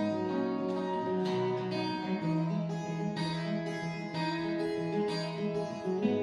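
Acoustic guitar playing, notes plucked and strummed in a steady pattern about twice a second, each ringing on into the next.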